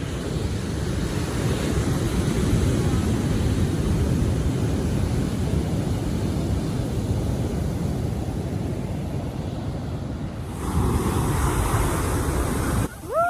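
Ocean surf washing on a beach, with wind buffeting the microphone. The sound changes abruptly about ten and a half seconds in, and a short rising high-pitched call comes at the very end.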